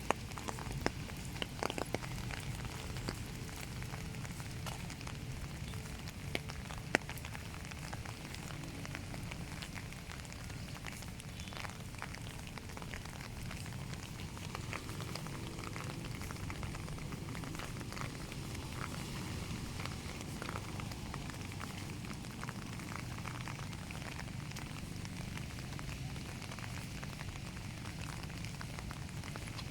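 Steady rain with a low rumble underneath and a few sharp ticks in the first seven seconds or so.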